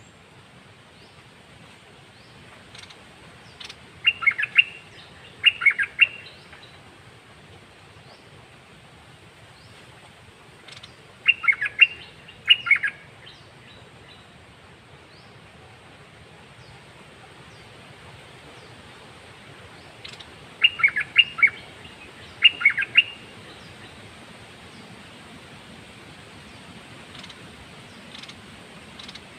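A caged songbird singing in three bouts several seconds apart, each bout two short, quick warbled phrases, with faint small chirps and ticks in between.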